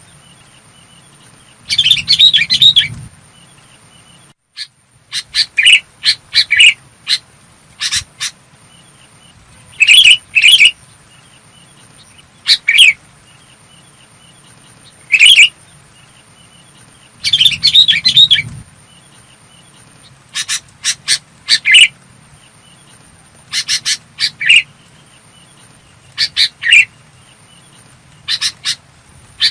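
Sooty-headed bulbul calling: short, clear, bubbly phrases repeated every second or few, with a faint steady high whine underneath.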